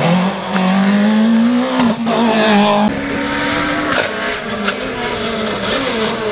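Rally car engine at full throttle: its pitch climbs, breaks briefly at a gear change about two seconds in, then the sound changes abruptly about three seconds in and the pitch falls near the end as it goes off the throttle.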